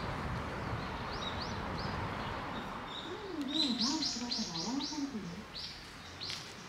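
A small songbird chirping: a few scattered high chirps, then a quick run of about seven around four seconds in and two more near the end, over steady background noise that drops away about three seconds in.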